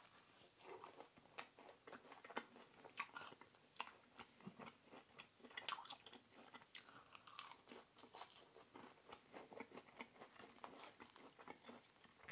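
Faint, close-miked chewing of a samosa, with many small irregular crunches and clicks.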